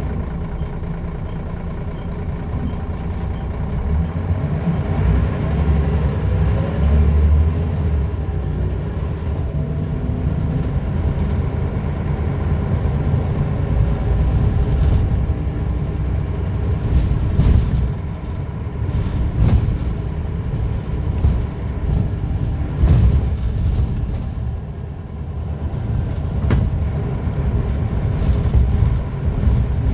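Scania L94UB bus's diesel engine, with ZF automatic gearbox, pulling away from idle about four seconds in and running under load, its pitch rising and falling as it accelerates. Several sharp knocks or rattles come in the second half.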